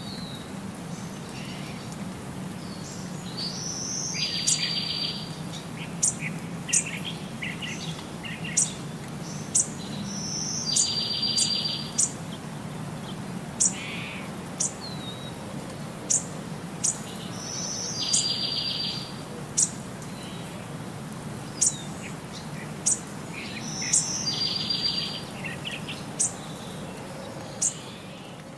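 Birdsong: short, sharp high chirps every second or two, with a buzzy trill repeating about every six and a half seconds, over a steady low hum.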